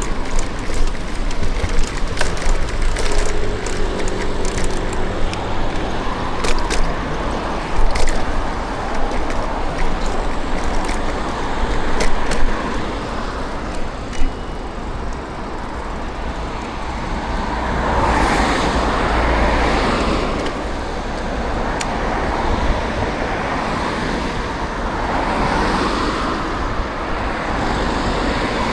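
City road traffic heard from a moving bicycle: a steady rush of traffic noise with scattered sharp clicks and knocks in the first half, then several vehicles swelling past one after another from about two-thirds of the way through.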